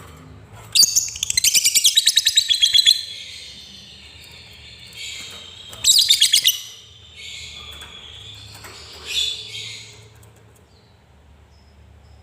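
Lovebird giving fast, high rattling trills (the chattering 'ngekek' call): a long run of about ten strokes a second starting about a second in, a shorter burst around the middle, then scattered high chirps.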